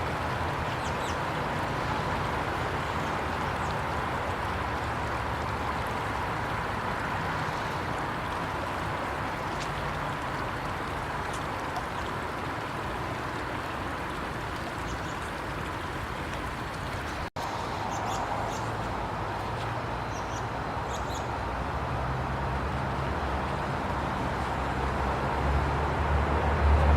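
Steady outdoor rushing noise with a few faint, short high chirps. It drops out for an instant about two-thirds of the way through, and a low rumble grows louder near the end.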